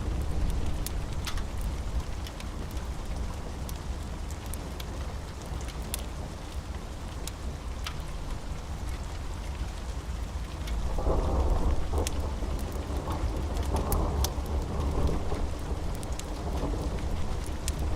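Steady rain over a deep, continuous rumble of thunder that swells louder about two thirds of the way through. Scattered sharp pops of a crackling wood fire run through it.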